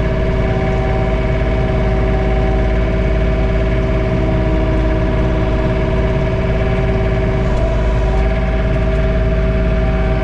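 John Deere 3046R tractor's three-cylinder diesel engine running steadily at about 1700 RPM, with the PTO driving a snowblower, heard from inside the closed cab as an even, unchanging drone.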